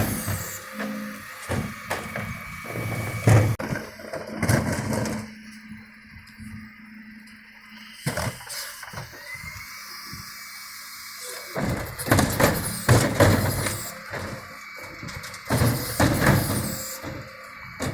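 Dennis Eagle refuse truck at work, engine running, with the clatter and bangs of wheelie bins being lifted and emptied by its Terberg lifters. It goes quieter through the middle, then a loud run of clanging and knocking comes in the last few seconds.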